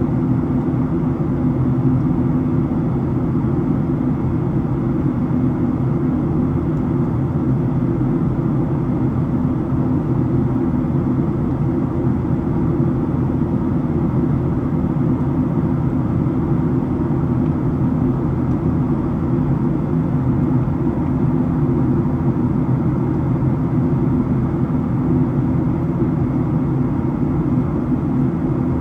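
Steady interior cabin noise of a Boeing 737-700 in flight: its CFM56 jet engines and the rush of air make an even, unchanging low drone, with a few steady low hums in it.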